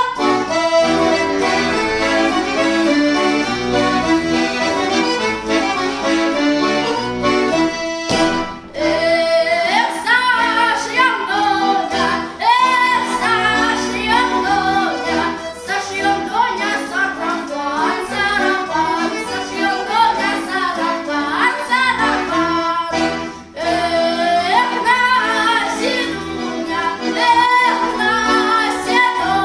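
A Russian round-dance folk song: a solo voice sings over accordion accompaniment. The accordion's chords carry the first few seconds, and the singing comes to the fore about nine seconds in, with two brief breaks in the music.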